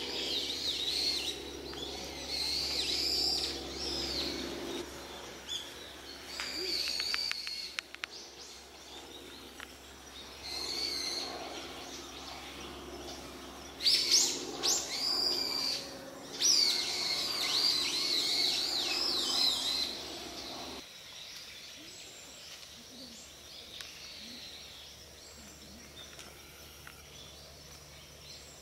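Wild birds calling with repeated high chirps and squeaky calls in several bouts, loudest about halfway through. A low background drone cuts off suddenly about two-thirds of the way in, and after that only quiet outdoor ambience remains.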